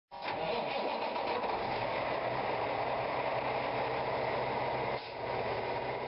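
Truck engine and road noise running steadily, with a brief dip in level about five seconds in.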